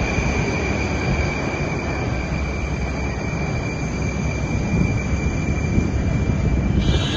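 Moscow metro train running on the track, a dense rumble with a steady high-pitched whine over it. The sound drops off abruptly near the end.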